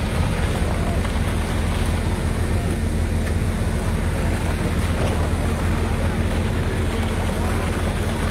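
Heavy construction machinery engine running steadily with a constant low hum.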